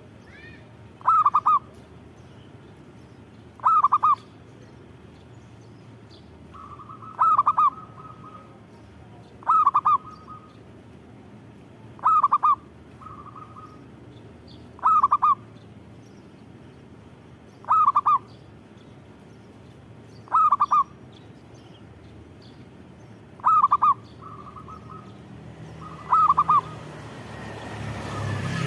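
Zebra dove (perkutut) cooing its song: a short phrase of quick cooing notes repeated ten times, about every two and a half to three seconds, some phrases led in by a softer drawn-out note. A low rumble rises near the end.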